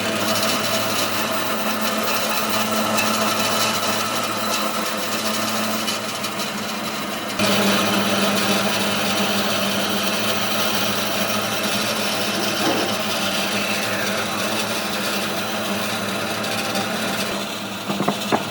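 A power tool running steadily as it works wood, with a dense rasping noise over a steady hum. It gets suddenly louder about seven seconds in, and a few sharp clicks come near the end.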